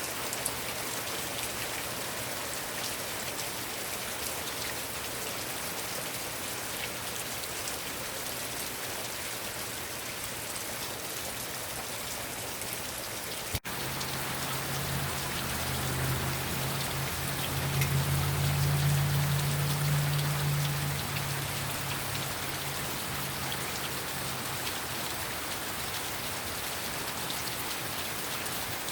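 Heavy rain falling steadily, a dense even hiss of drops. About halfway through there is a sharp click, and then a low hum swells for several seconds and fades away beneath the rain.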